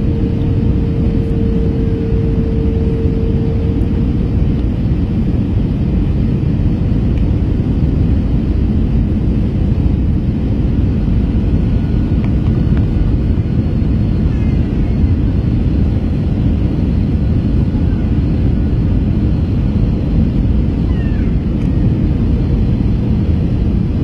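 Airbus A321 passenger cabin noise in flight: a loud, steady low rumble of engines and rushing air, with a faint steady hum that fades out in the first few seconds.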